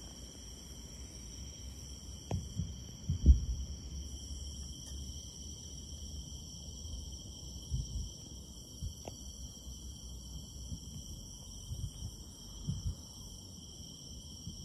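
Distant fireworks going off: irregular low booms, the loudest about three seconds in, over a steady high trill of insects.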